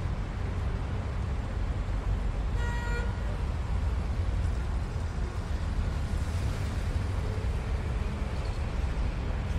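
Steady low rumble of wind and road noise while riding a bicycle, with one short horn toot about three seconds in.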